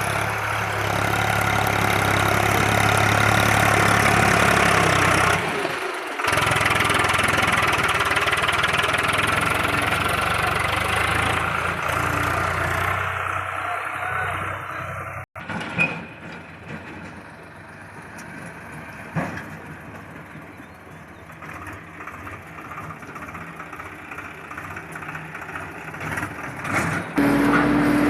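Diesel engine of an L&T Case 770 backhoe loader running steadily. About halfway through the sound cuts off abruptly and is replaced by a much quieter background with a few scattered knocks.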